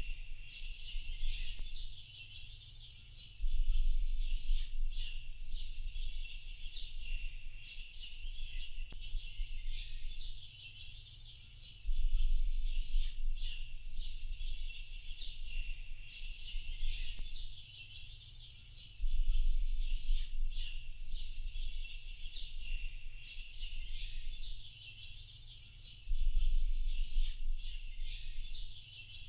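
Dense chorus of many small birds chirping and twittering without a break. A low rumble comes in for a few seconds every seven to eight seconds, about four times.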